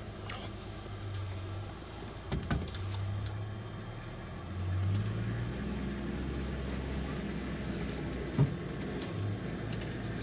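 Vehicle engine running steadily at idle, a low hum that grows a little louder about halfway through, with a few short knocks and clicks, the sharpest near the end.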